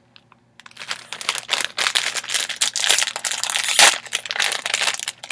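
Plastic snack bag crinkling as it is handled and pulled open, with one louder crackle a little before the end.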